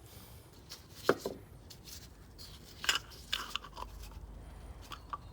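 Small plastic carburettor parts clicking and tapping as they are handled and fitted together: one sharp click about a second in, another near three seconds, and a few lighter taps after it.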